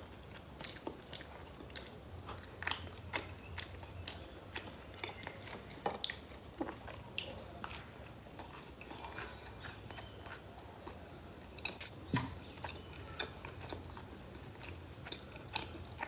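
A person biting and chewing cheese and pineapple pizza with her mouth close to the microphone. Many short, sharp mouth clicks come at irregular intervals, with a louder one about two seconds in and another about twelve seconds in.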